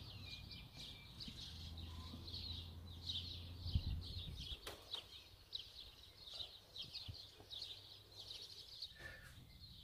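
Small birds chirping, many short high calls repeated throughout, faint, with a faint low hum in the first few seconds and a couple of soft knocks near the middle.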